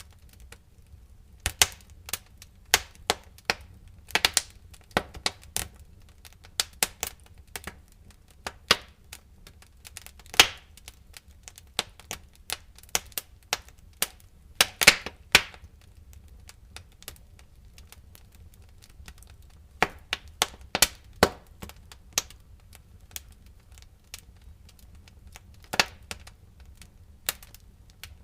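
Wood fire in a fireplace crackling: irregular sharp pops and snaps, several a second at times, some much louder than others, over a faint low hum.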